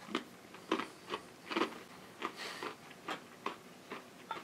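Mouth crunching on a crisp salted caramel pretzel: a string of short, sharp crunches, roughly two a second, as it is chewed.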